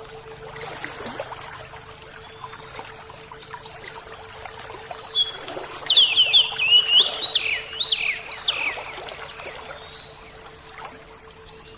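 Running water trickling, with an oriental magpie-robin (kacer) singing a loud run of quick, falling notes from about five to nine seconds in. A faint steady hum lies underneath.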